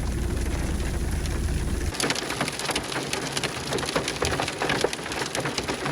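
Hailstones falling in a dense, irregular patter of sharp ticks as they strike hard surfaces, starting about two seconds in after a low rumble.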